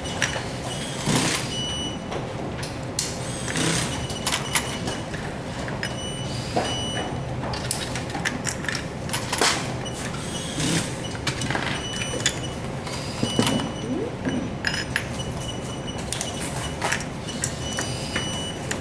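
Clatter of small metal parts and tools being handled, with irregular knocks and clicks over a steady low machine hum and short high-pitched tones that come and go.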